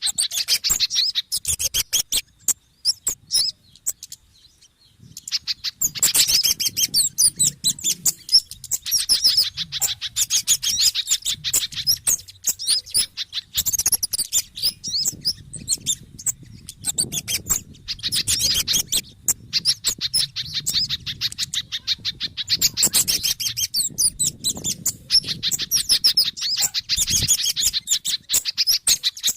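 Bird-lure recording of small songbirds calling in agitation: dense runs of rapid, high-pitched chirps and twitters, with a short lull a few seconds in. The track is a mix of kemade, sogon and pijantung (spiderhunter) alarm-type 'ribut' calls, used to draw wild birds in.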